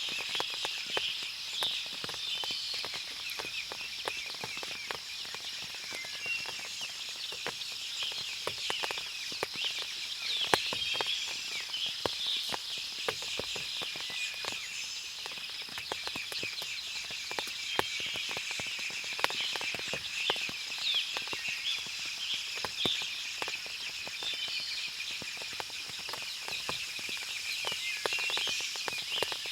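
Forest ambience after rain: many birds chirping and twittering over a steady high hum of insects, with frequent short ticks of water dripping from the leaves.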